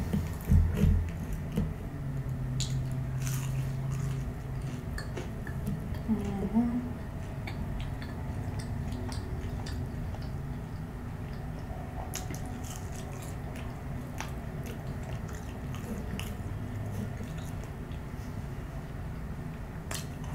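Close-miked chewing of McDonald's chicken nuggets: scattered wet mouth clicks and smacks throughout, with a brief low hum a couple of seconds in.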